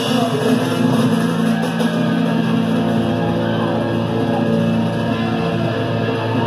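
Live rock band playing an instrumental passage with electric guitar and drums, no vocals.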